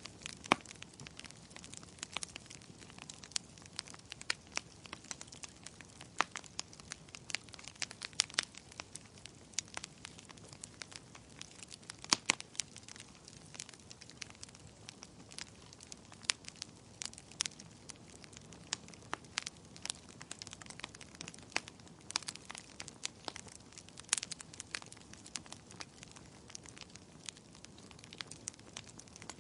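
Wood fire in a fireplace crackling: irregular sharp pops and snaps over a soft, steady hiss of burning, with a few louder pops scattered through.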